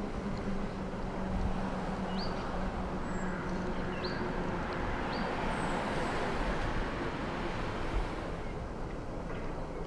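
Outdoor woodland ambience: a steady rushing noise that swells and fades in the middle, with a low hum that fades out after the first few seconds. A few short, high bird chirps come over it.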